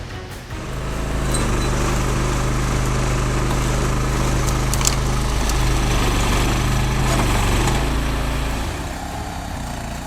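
A heavy vehicle's engine running steadily, coming up about a second in and easing off near the end.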